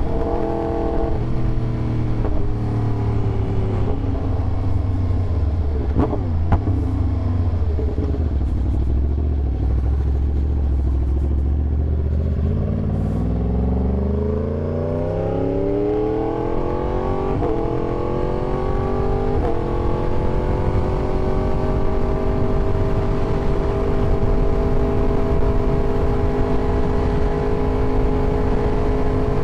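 Yamaha YZF-R1 sportbike's inline-four engine, first holding a low steady note, then revving up over several seconds about halfway through, then running at a steady higher pitch. A steady rushing noise runs underneath.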